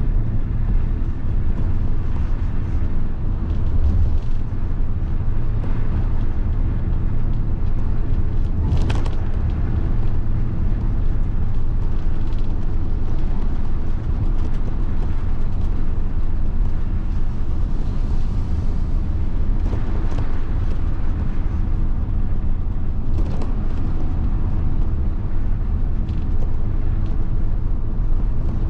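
1990 Mitsubishi Fuso bus's 7.5-litre diesel engine running steadily with a deep, even rumble, and a couple of brief knocks, one about nine seconds in and one later on.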